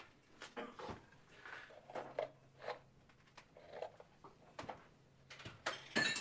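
Objects being handled and shifted while rummaging through shelves and boxes: scattered light knocks and rustles. Near the end comes a louder clink that rings briefly, like glass or metal ware knocking together.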